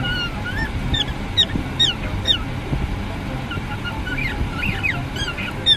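Parrots calling in a rapid run of short, sharply rising and falling shrill calls, several overlapping about four to five seconds in, over a steady low hum.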